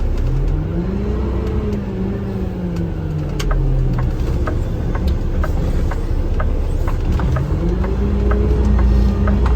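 Garbage truck's engine heard from the cab, revving up and easing off twice as the truck accelerates and slows. A regular ticking about twice a second runs alongside.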